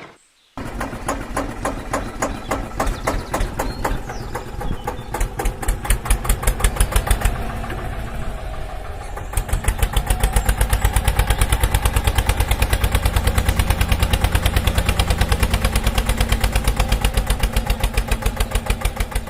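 Tractor engine running with a rapid, even chugging beat. It gets louder and steadier about nine seconds in.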